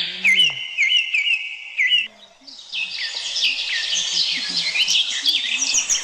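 Wild birds singing: a clear whistled phrase repeated several times for about two seconds, a brief pause, then a dense chorus of quick chirping notes.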